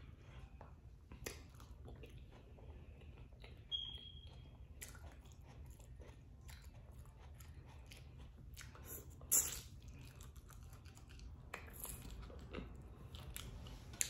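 A person chewing shrimp boil food with the mouth close to the microphone, faint wet mouth clicks and crackles throughout, and a sharper click about nine seconds in.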